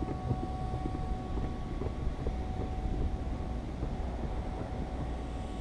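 A cut-out wire line being pulled through the urethane bead around a windshield, giving irregular small crackles and creaks over a steady low rumble.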